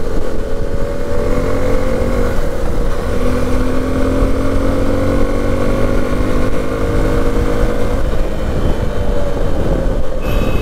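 Suzuki V-Strom SX 250's single-cylinder engine pulling in gear on the move, its note rising slowly for several seconds as the bike gathers speed, over a steady wind and road rumble.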